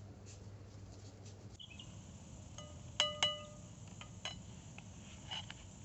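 Dishes or utensils clinking: two sharp, ringing clinks about three seconds in, a quarter-second apart, with a few lighter taps after them.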